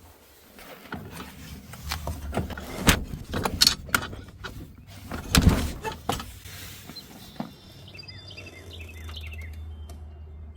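A string of irregular knocks and thumps, the loudest about five and a half seconds in, then a few short bird chirps over a steady low hum.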